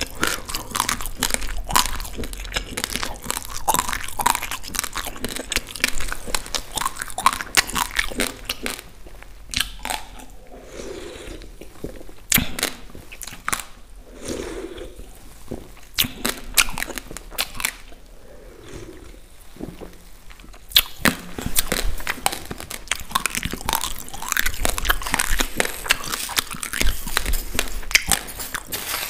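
Close-miked crunching and chewing of dry, uncooked basmati rice grains, a fast crackle of small cracks. In the middle the crunching thins out while cola is drunk from a can and swallowed, then the dense crunching starts again.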